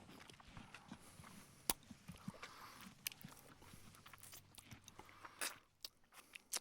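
Cats chewing food, with irregular crunches and sharp clicks of bites, the loudest a sharp click a little under two seconds in.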